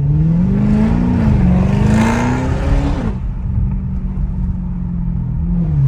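Straight-piped Audi S7 exhaust under hard acceleration, with the sound actuator switched off. The engine note climbs, dips briefly a little after a second in, climbs again, then drops away as the throttle is lifted about three seconds in. It then settles to a steady lower drone.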